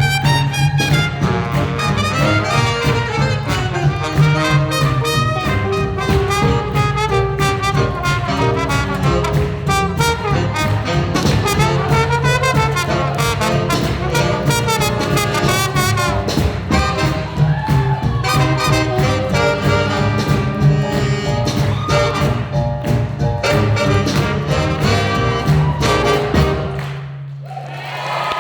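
Live swing jazz band playing an up-tempo number for Lindy Hop dancing. The music stops about a second before the end, leaving a low note sounding briefly.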